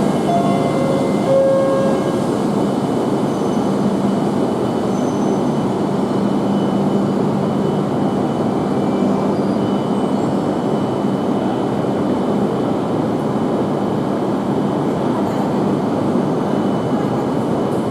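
Tohoku Shinkansen train running alongside the platform: a loud, steady rushing of wheels and air, with a faint hum in the first couple of seconds.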